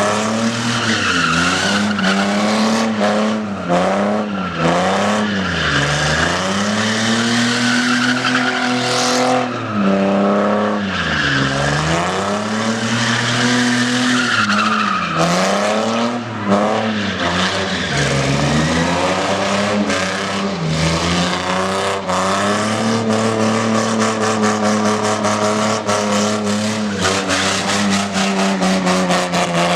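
A vehicle engine revving hard at high revs, dropping and climbing again over and over, then held high near the end, with tyres squealing and skidding through a burnout.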